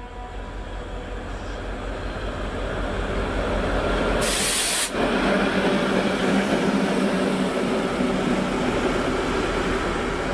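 Train approaching and passing, its rumble growing louder over the first few seconds. A short, sharp hiss of air comes about four seconds in, then a steady low drone from the train.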